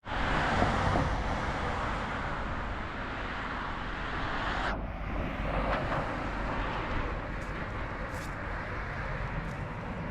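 Steady road-traffic noise, loudest in the first second, with an abrupt change about five seconds in.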